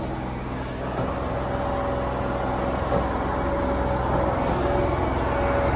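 Heavy diesel machinery engine, a tractor or the combine harvester, running steadily under power, with a steady whine above the engine note.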